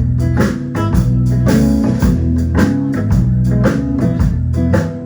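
Live band playing a blues song, an instrumental stretch between vocal lines: guitar and bass notes over a steady drum beat.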